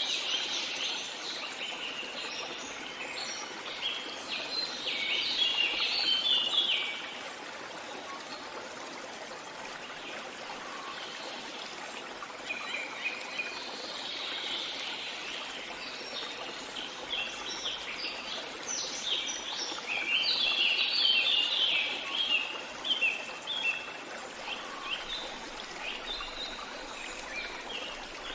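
A stream running steadily, with small songbirds singing in bursts of rapid, high chirps over it: a long burst in the first seven seconds, a shorter one in the middle, and more from about two-thirds of the way in.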